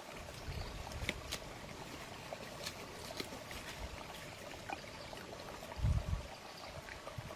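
Steady running or trickling water, like a small stream, with scattered light clicks and a short low thump about six seconds in.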